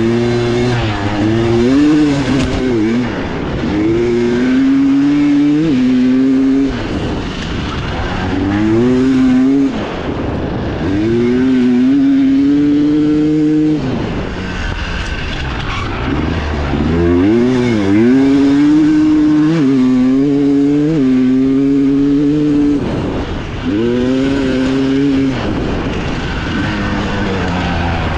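Enduro dirt bike engine heard on board, revving hard and rising and falling in pitch over and over as the rider works the throttle and shifts gears on a trail.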